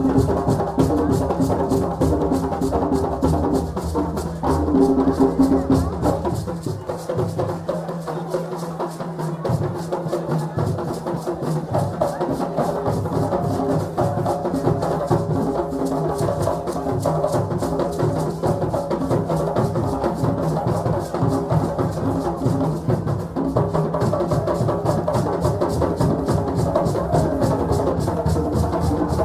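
Group drumming in a fast, steady rhythm, with voices singing over it. The deep low drum drops out for a few seconds about a quarter of the way in, then returns.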